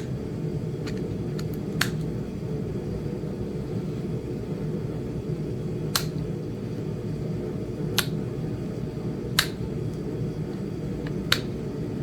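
Pressure flaking on Flint Ridge chert: about five sharp clicks a couple of seconds apart as small flakes snap off the edge of the point, over a steady low hum.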